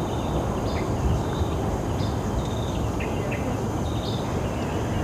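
Birds calling with short, high chirps repeated about once or twice a second, over a steady low rumbling noise.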